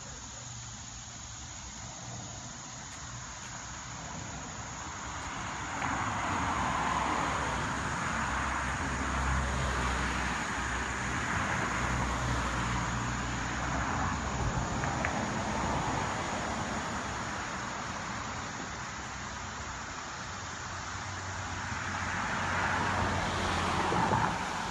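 Road traffic: car engine hum and tyre noise that swells about six seconds in and again near the end, as vehicles go by.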